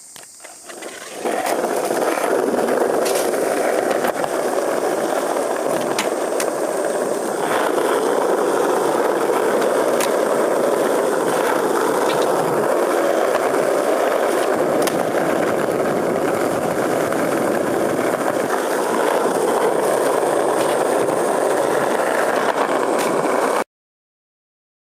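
Skateboard wheels rolling steadily over pavement, a continuous rumble with scattered sharp clicks, cutting off suddenly near the end.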